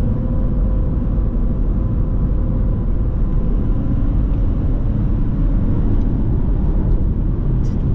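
Steady low rumble of a 2019 Ford F250 Super Duty's 6.7-litre Power Stroke V8 turbo diesel and its road noise, heard from inside the cab while driving at a steady pace, with a faint steady whine over it.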